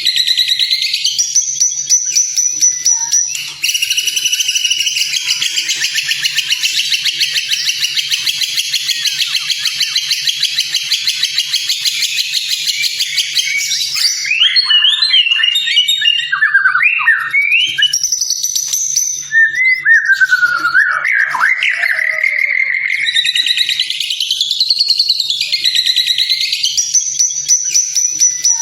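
White-rumped shama (murai batu) singing a varied song full of mimicked phrases. For about ten seconds it holds a fast, buzzy trill, then breaks into a run of varied whistled notes that glide quickly up and down.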